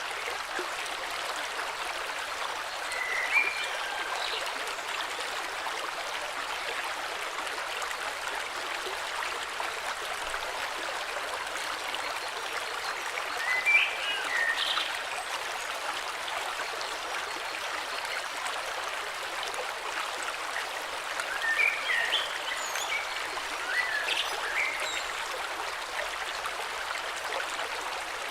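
A flowing river's steady rush, with short bird chirps in three brief spells: a few seconds in, about halfway, and through the last third.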